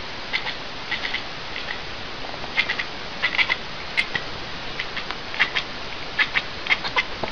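A small animal making short, high-pitched squeaks in irregular clusters of a few a second, over a steady background hiss.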